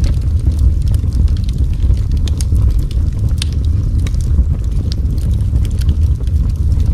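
Wood fire burning in a fireplace: a steady low roar with many scattered sharp crackles and pops.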